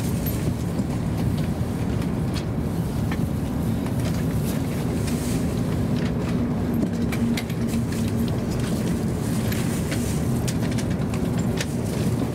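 Running noise heard inside a Hokuriku Shinkansen car as the train rolls into Fukui Station: a steady low rumble of wheels on rail with scattered light clicks, and a faint steady hum from the drive for a few seconds around the middle.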